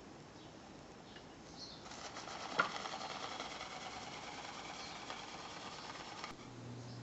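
Small two-cylinder model engine running with a fast, even chatter. It starts about two seconds in with a sharp click and cuts off suddenly about six seconds in.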